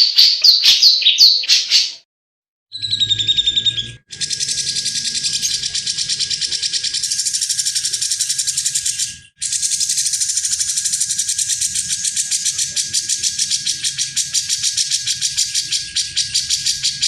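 Cucak jenggot (grey-cheeked bulbul) singing. It opens with a quick series of clear falling whistled notes, then after a short pause it gives a long, fast, harsh chattering rattle that runs on with two brief breaks.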